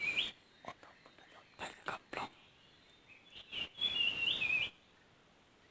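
A small bird calling twice: a short warbling phrase right at the start and a longer, quick warbling phrase about three and a half seconds in. A few faint clicks fall between the calls.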